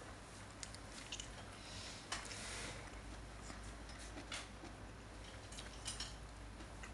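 A person chewing a mouthful of food, with scattered faint clicks and a short breathy hiss about two seconds in.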